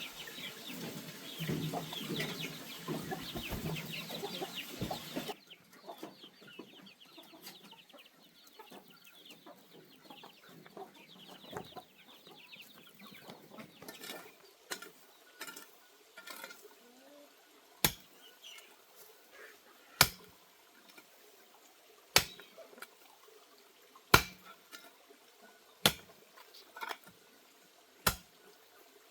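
Domestic chickens clucking, loudest and densest for the first five seconds or so, then quieter. In the second half, sharp single knocks come about every two seconds.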